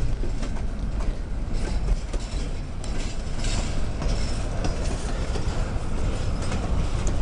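Train cars rolling past, a steady low rumble with wheels clicking over the rails.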